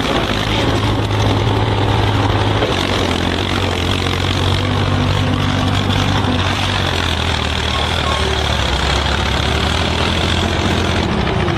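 A large engine running steadily, its pitch dropping slightly about three seconds in.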